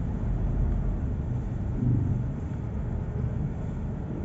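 Low, steady rumble of a car being driven through city traffic: engine and road noise, swelling briefly about two seconds in.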